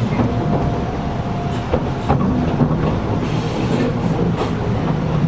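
Inside a Gakunan Railway 7000-series electric railcar under way: a steady rumble of the wheels on the rails, with a few sharp clicks over the rail joints about two seconds in. The air conditioning runs underneath.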